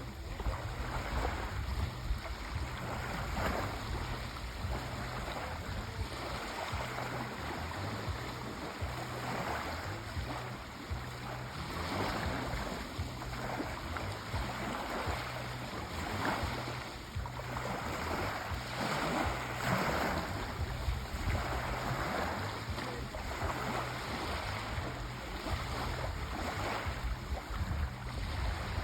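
Sea waves washing continuously, a rushing wash that swells and eases every few seconds.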